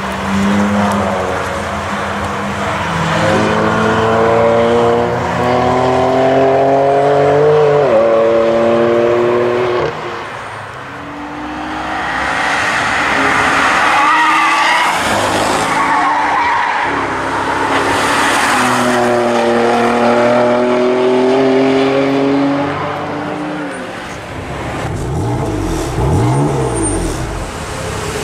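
BMW performance car engines accelerating hard, the note rising in pitch and then dropping at a gearchange about eight seconds in. The pattern repeats with a second run later. In between come tyres squealing, and near the end a car sweeps past.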